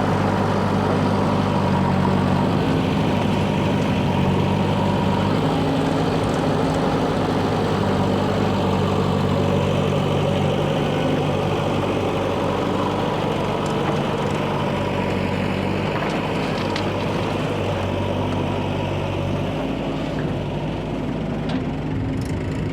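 Heavy diesel engines of a backhoe loader and tractors running steadily, the engine note stepping up and down several times as the revs change under work.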